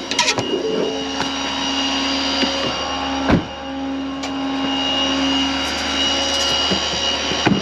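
Steady machine hum, like an engine running, with several held tones. There are a few clicks at the start and one sharp thump about three seconds in.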